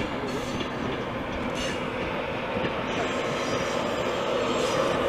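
InterCity 225 train, a Class 91 electric locomotive with Mark 4 coaches, running past the platform. A steady rail rumble grows louder, and a thin high wheel squeal joins it about three seconds in.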